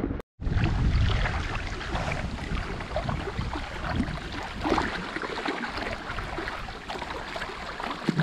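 River water rushing and lapping around a kickboat drifting on a strong current, a steady wash with a low rumble and small scattered splashes.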